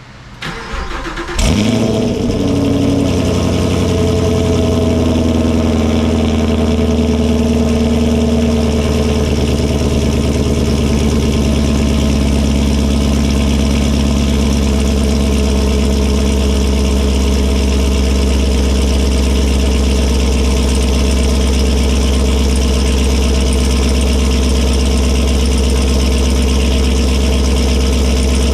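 Chevrolet Camaro 2SS 1LE V8 with long-tube headers and no catalytic converters cold-started: the starter cranks briefly, the engine catches with a loud flare about a second and a half in, then settles over several seconds into a steady, loud high cold idle.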